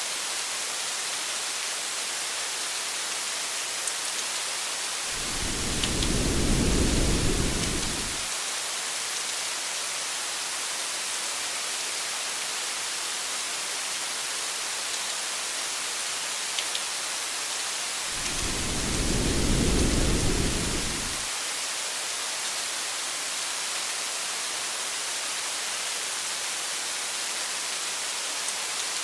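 Steady hiss of rain falling, with a few faint drop ticks. Twice, about five and eighteen seconds in, a low rumble of thunder swells and fades over about three seconds.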